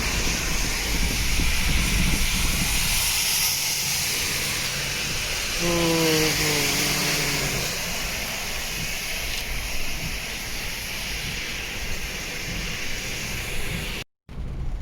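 Heavy rain and wet-road noise from a car driving in a downpour: a steady hiss of rain and tyre spray over a low rumble. About six seconds in, a pitched tone sounds for about two seconds, sliding slightly down. The sound cuts out abruptly near the end.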